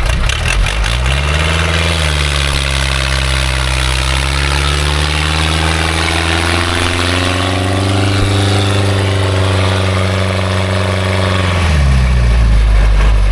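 Small logging truck's engine revving up about a second in and held at raised revs for about ten seconds, its pitch creeping slightly higher in the middle, then dropping back to idle near the end.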